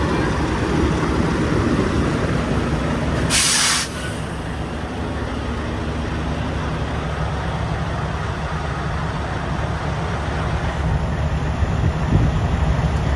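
Semi truck's diesel engine running with a steady low rumble, and a short sharp hiss of released air from the air brakes a little over three seconds in.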